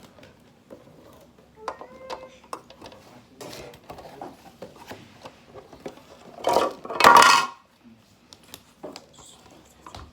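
Small hard plastic toy parts being handled and fitted together: scattered light clicks and clatters, with a louder burst of clattering handling noise about six to seven seconds in.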